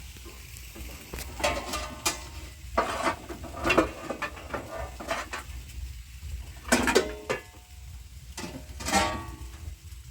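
Metal pots, dishes and utensils clattering: a series of ringing clinks and knocks, loudest about seven and nine seconds in, over a steady low rumble.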